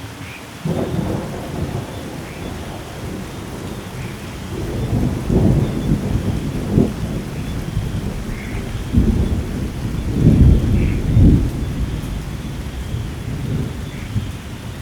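Thunderstorm: steady rain hissing while thunder rumbles low and long, breaking in suddenly about a second in and swelling again to its loudest peals past the middle before fading.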